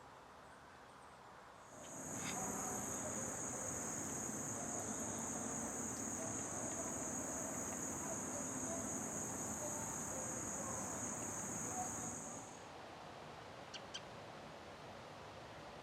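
An insect's steady high-pitched trill for about ten seconds, then stopping, over outdoor background noise; a few brief chirps follow near the end.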